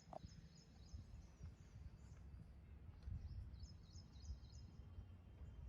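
Faint birdsong: two stretches of high, quick chirping trills, the second starting about three and a half seconds in, over a low steady rumble of outdoor background noise.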